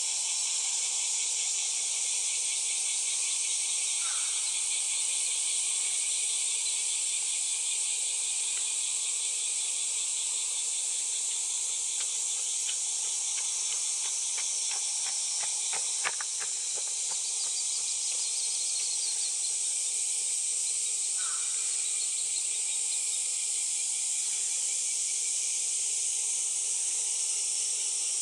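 Steady, high-pitched chorus of insects. A few faint short chirps come and go, and there are some soft clicks about halfway through.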